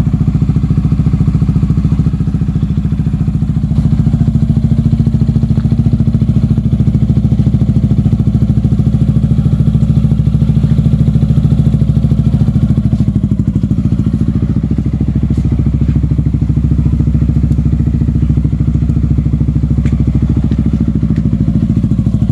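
Yamaha XMAX scooter's single-cylinder four-stroke engine running through an Akrapovic full exhaust system, a steady low pulsing exhaust note that gets a little louder about four seconds in.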